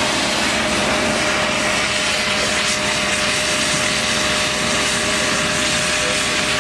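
A steady, even engine-like roar with a faint constant hum, no change or break throughout.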